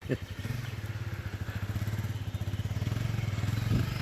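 Motocross dirt bike engine running at a steady speed, its rapid firing pulses even throughout.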